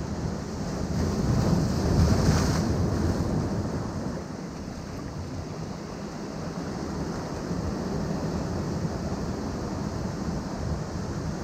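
Ocean waves breaking on a rocky shore, with a rush of surf that swells to a peak about two seconds in and then eases off. Wind buffets the microphone.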